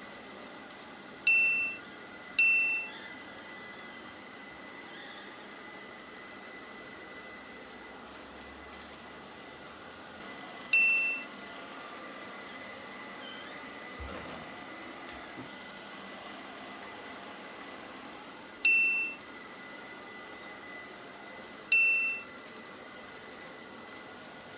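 A bright chime-like ding, struck five times at uneven intervals: two close together near the start, one a little before the middle, and two near the end. Each rings out and fades within about half a second. A faint steady hiss with a thin high tone runs underneath.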